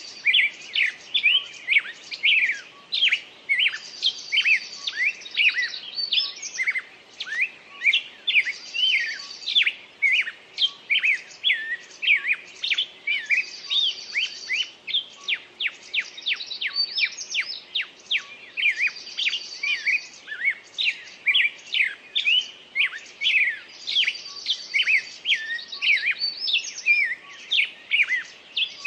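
Birdsong: several birds chirping and trilling in quick, overlapping calls. The same cluster of calls comes back about every five seconds.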